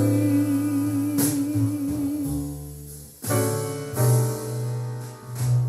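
Recorded vocal ballad played through a JBL Control 28 loudspeaker: a female singer holds a long note with vibrato that fades out about halfway through, then piano chords and bass carry on.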